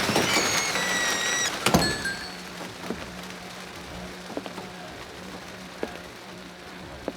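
Heavy rain noise with a few steady high electronic tones laid over it, then a sharp hit about two seconds in. After the hit the rain drops away to a quieter bed with a steady low hum and scattered light drips and ticks.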